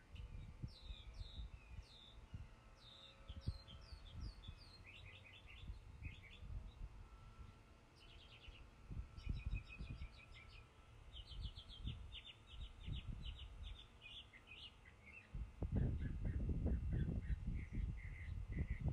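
Songbirds chirping and trilling: repeated quick down-slurred notes, then a run of rapid trills in the middle. Near the end a louder low rustle of leaves and handling noise covers them.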